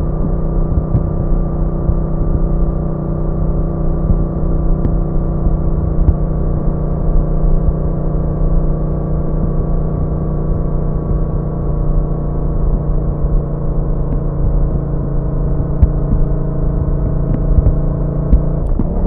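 Yamaha MT-07's 689 cc parallel-twin engine running at a steady, even throttle while riding, with low wind and road rumble underneath. The engine note changes pitch briefly right at the end.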